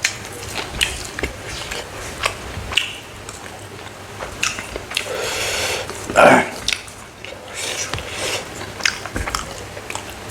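Close-up eating of dry smoked frog: biting and chewing with irregular crunching and crackling, and one louder mouth sound about six seconds in.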